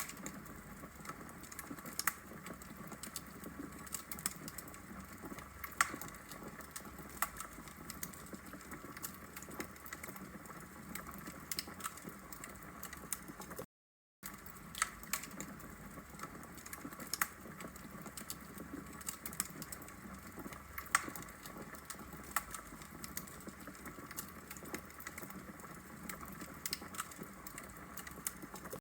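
Wood logs burning in a fireplace: a steady soft hiss with frequent irregular sharp crackles and pops. About halfway through, the sound cuts out to silence for a fraction of a second, then resumes.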